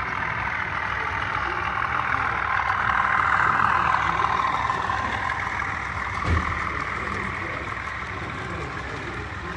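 Diesel locomotive running, its engine sound swelling to a peak about three to four seconds in and then easing off, with one short low thump a little after six seconds.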